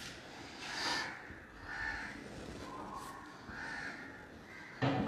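Faint harsh bird calls, about four of them spaced roughly a second apart.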